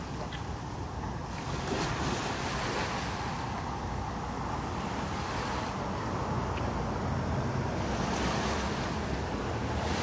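Ocean surf: waves breaking and washing in, swelling and fading several times over a steady low rumble of wind on the microphone.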